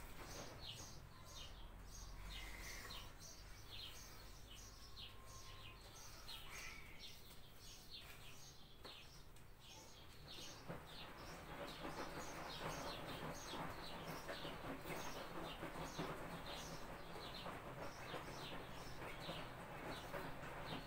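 Small birds chirping, a steady run of short, high, falling chirps about two or three a second, heard faintly.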